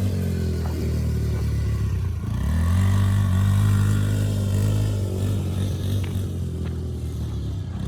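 Small off-road engine of a kids' dirt bike or quad working around a dirt track, its pitch rising and falling repeatedly as the throttle is opened and eased off, loudest from about two and a half to four seconds in.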